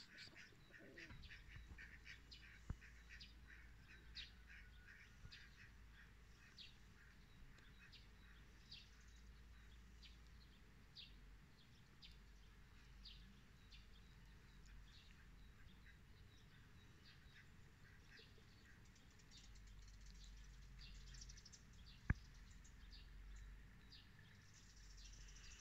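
Faint birds chirping, short high calls repeated a few times a second, with a single sharp click near the end.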